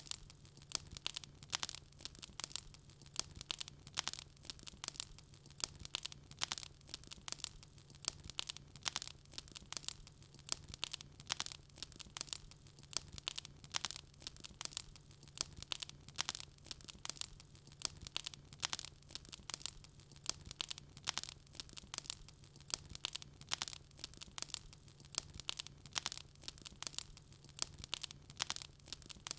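Wood fire burning in a fireplace, with dense, irregular crackles and pops several times a second.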